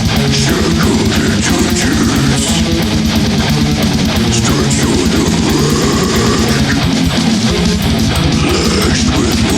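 Heavy metal music: distorted electric guitars riffing over a fast, steady drum beat.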